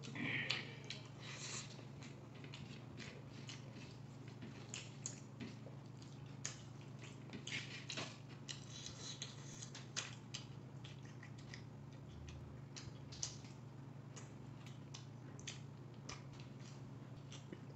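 Close-miked chewing of a man eating noodles by hand, with irregular wet mouth clicks and lip smacks over a steady low hum.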